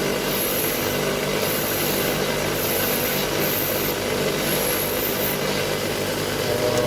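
Grinder with a wire brush wheel running steadily, scrubbing carbon off a spark plug; a high scratchy hiss comes and goes in short spells, about once a second, as the plug is pressed against the brush.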